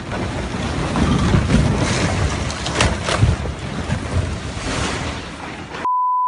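A loud, rushing roar with a few sharp knocks about halfway through. It cuts off abruptly near the end and gives way to a steady, high-pitched beep.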